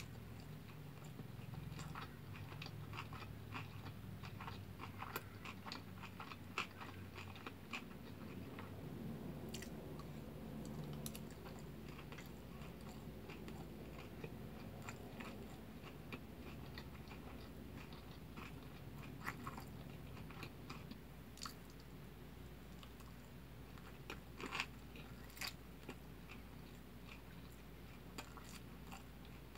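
A person chewing a big mouthful of kimbap with their mouth closed: faint wet clicks and smacks of chewing, thickest over the first ten seconds or so, thinning out, then a few sharper clicks again about twenty to twenty-five seconds in.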